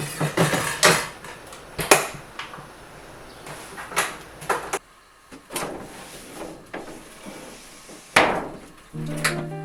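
A series of separate knocks and clatters from objects being handled and set down indoors, with the loudest knocks about 2 seconds in and about 8 seconds in. Music starts near the end.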